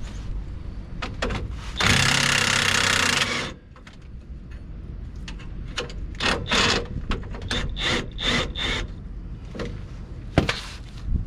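An impact wrench runs in one burst of about a second and a half, breaking loose a rear shock mount bolt. This is followed by a series of light metallic clinks and clicks from the tool and the loosened hardware.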